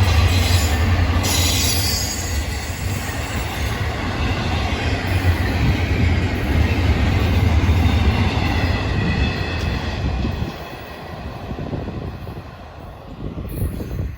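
Freight train cars rolling past: a steady low rumble of wheels on rail with a faint high wheel squeal, the rumble dropping off about ten seconds in.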